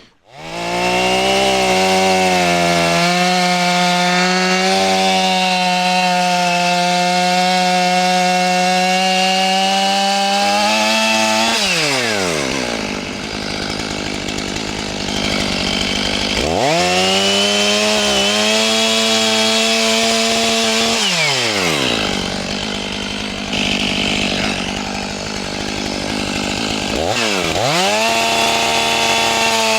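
Two-stroke gasoline chainsaw coming on suddenly and running at high speed. Its engine pitch drops sharply and climbs back again three times.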